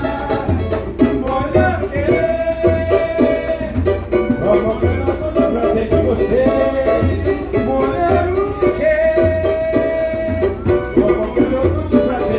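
Samba music: singing over percussion, with a steady low drum beat and busy high ticking percussion.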